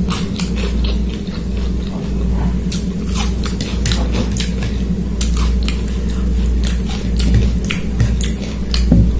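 A person chewing chicken curry and rice close to the microphone, with many sharp wet mouth clicks and smacks scattered through, over a steady low hum.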